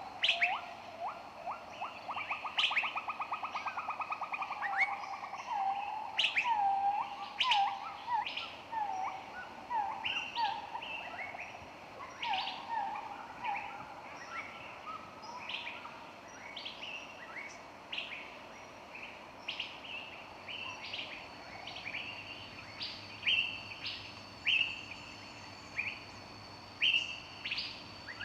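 Several wild birds singing and chirping together. A fast trill of repeated low notes runs for the first few seconds, then comes a string of short down-slurred notes, over a steady scatter of sharp high chirps. Thin high whistles are added in the second half.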